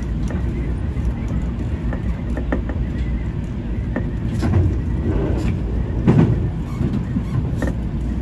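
Seibu 20000 series electric train running on the rails, heard from inside, a steady low rumble. From about four seconds in, several sharp clacks as the wheels run over the rail joints and points of a junction.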